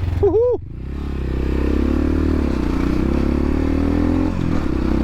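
250cc dirt bike engine (X-Pro Templar X 250) pulling away, rising in pitch over the first couple of seconds, then running steadily. A short shout of "woohoo" comes just before the engine picks up.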